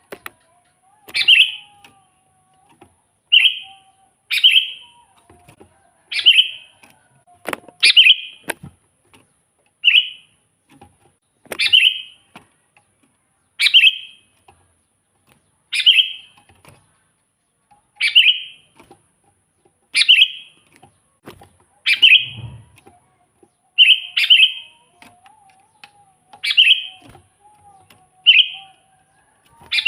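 Sooty-headed bulbul singing vigorously, repeating a short, bright chirping phrase about every two seconds.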